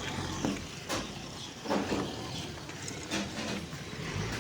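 Motor vehicle driving past on a road, a low engine rumble with road noise.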